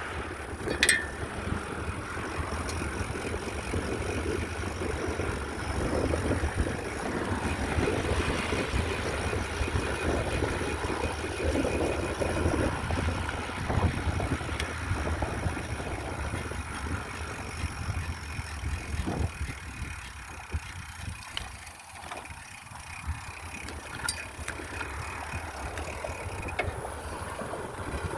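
Riding a bicycle: steady rumbling noise with wind on the microphone, a few light ticks, easing off for a few seconds past the middle.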